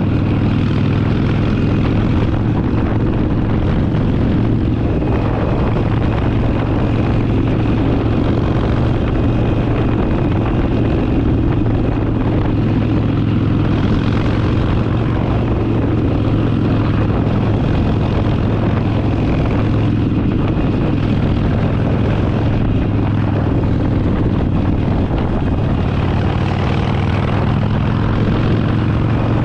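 Harley-Davidson Forty-Eight's air-cooled V-twin running at a steady speed under way, holding an even pitch.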